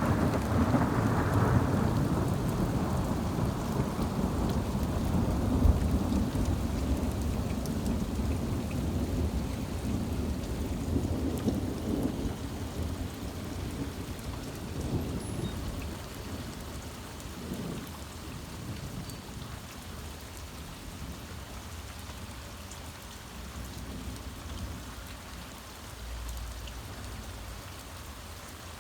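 A long roll of thunder that breaks just before the start and rumbles on, fading slowly over about twenty seconds with a few smaller swells, over steady heavy rain.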